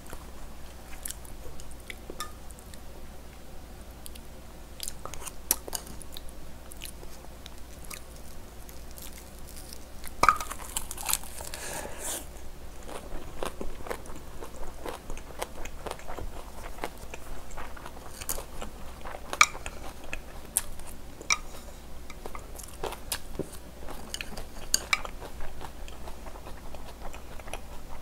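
A person chewing and crunching food close to the microphone, with sharp wet clicks of the mouth throughout and a louder burst of crunching about ten seconds in.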